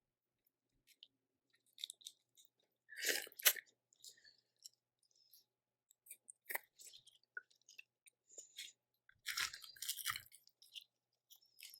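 Close-miked eating of Cajun seafood boil: chewing and crunching, with louder crunches about three seconds in and again around nine to ten seconds.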